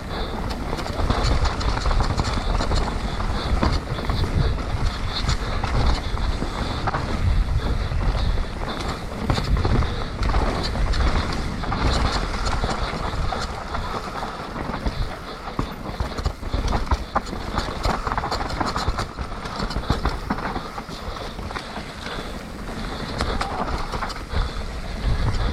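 Mountain bike descending a muddy trail: steady rushing and low buffeting of wind on the microphone, tyres on wet dirt, and a constant rattle of sharp clicks from the bike over rough ground.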